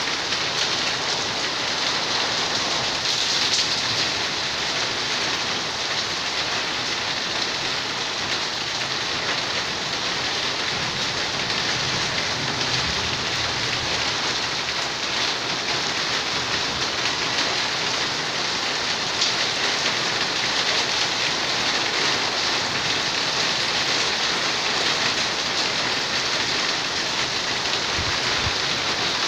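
Steady rain falling and splashing on wet concrete and leaves, an even hiss that does not let up.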